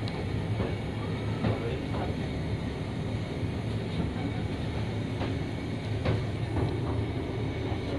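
ER9M electric multiple unit running, heard inside at the door: a steady low hum and rumble from the train, with a few irregular knocks and clicks.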